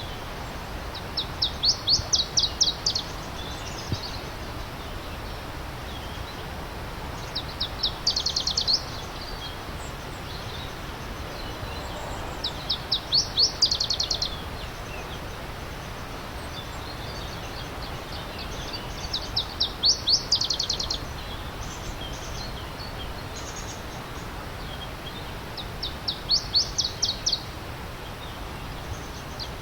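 A songbird repeating the same short song five times, about every six seconds: each a quick series of high notes lasting a second or two. Under it a steady rush of stream water.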